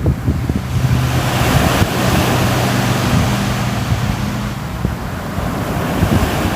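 Sea waves washing in, a steady surging rush that swells a second or two in, with wind buffeting the microphone. A low steady hum runs underneath for the first few seconds.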